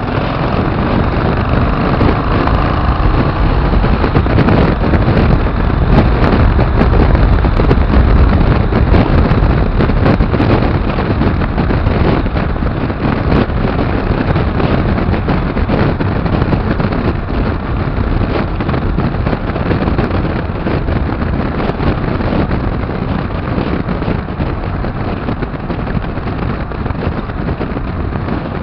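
Rushing wind buffeting the microphone on a moving bike, with steady road noise underneath, loudest a few seconds in.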